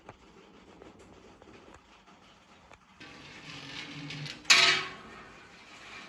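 Metal objects handled, ending in one loud clank about four and a half seconds in, after a rustle that builds from about three seconds in.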